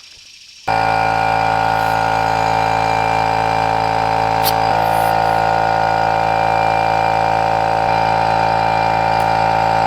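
Air compressor running steadily, inflating a tire; it starts abruptly under a second in and holds a constant hum.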